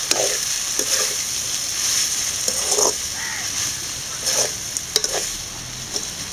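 Idli pieces stir-frying in hot oil in a pan, sizzling steadily, while a metal spatula stirs and scrapes through them in a series of short strokes.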